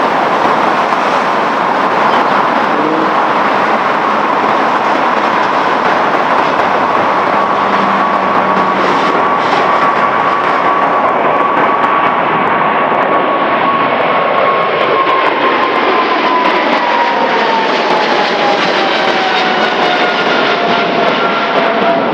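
Boeing 777-200LR's GE90 jet engines, loud and steady, with a whining fan tone that holds level and then falls in pitch over the last several seconds as the aircraft goes past.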